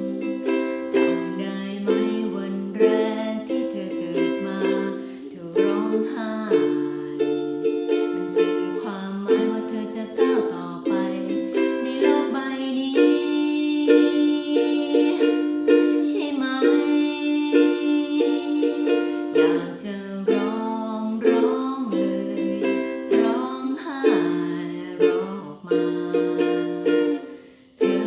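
Ukulele playing an instrumental passage of a song: plucked melody notes over changing chords, in a small room, with a brief drop in level near the end.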